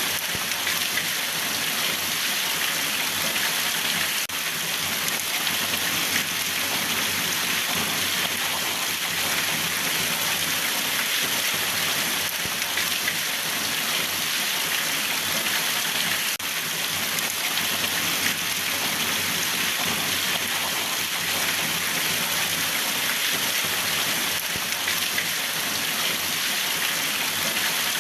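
Steady rain falling: a continuous, even hiss of drops with no let-up.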